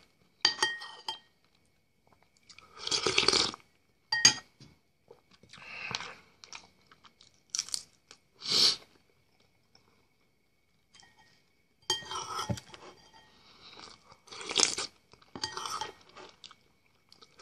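A man chewing and crunching food, in short bouts separated by brief pauses.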